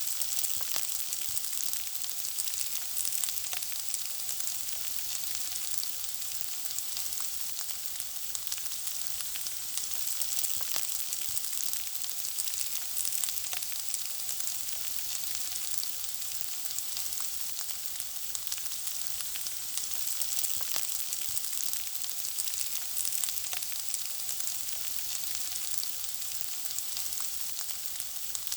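Food frying: a steady sizzling hiss with frequent small crackles and pops.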